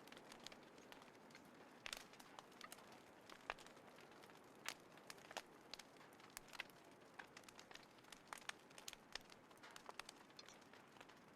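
Small wood fire crackling, with irregular sharp pops and snaps over a faint steady hiss.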